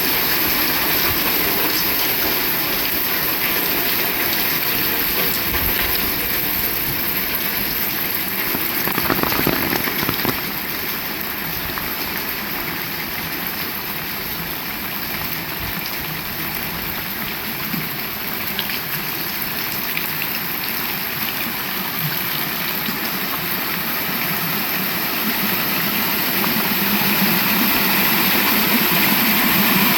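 Heavy rain falling steadily, a dense even hiss of drops. A low rumble builds slightly near the end.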